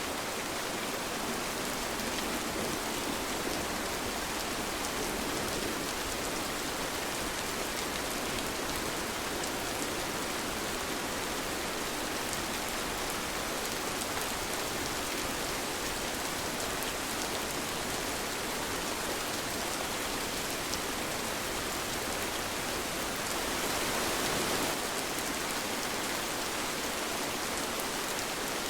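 Steady rain falling, an even hiss scattered with small drop ticks. It grows briefly heavier about three quarters of the way through.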